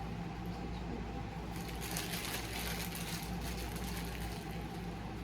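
Rustling and crinkling from handled toy packaging, starting about a second and a half in, over a steady low room hum.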